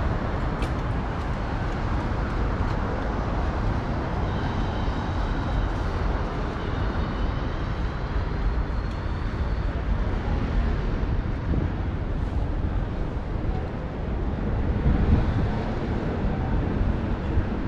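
Ride noise from a bicycle-mounted action camera: wind rumbling on the microphone over steady tyre and road-traffic noise. A faint high whine comes in for a few seconds around the middle.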